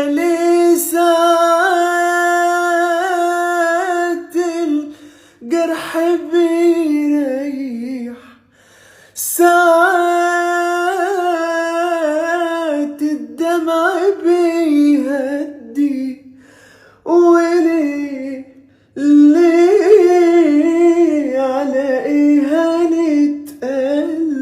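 Unaccompanied solo voice singing a wordless, ornamented melody, with long held notes that waver. The phrases break off briefly for breaths several times.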